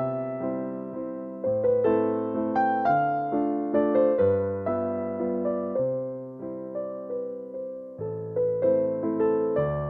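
Slow, gentle piano music: single notes and chords struck and left to ring out, at an unhurried pace.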